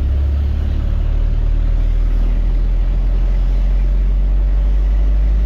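Truck engine running with a steady low note that drops lower about two seconds in.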